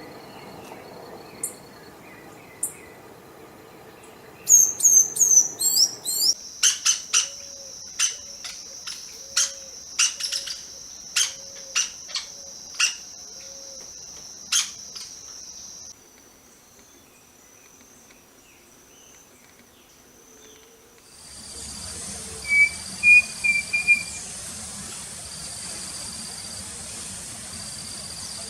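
Wild forest birds calling in a sequence of recordings. Sharp high chirps and calls come over a steady high thin tone, then a quieter stretch, then a run of repeated short high notes with a few quick chirps near the end.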